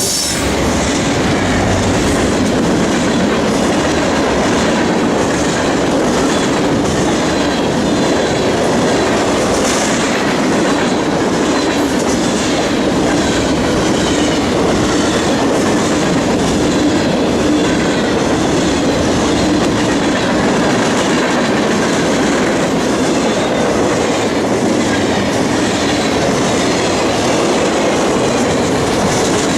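Train cars rolling steadily past, a continuous loud rumble with wheels clicking rhythmically over the rails.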